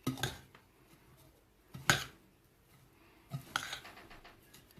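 A spoon scraping and clinking against a bowl a few times while stirring a moist seed-and-egg-food mix.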